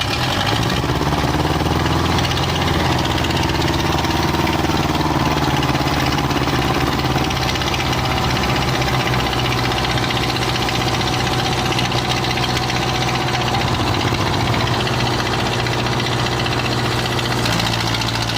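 Diesel tractor engine running loudly and steadily.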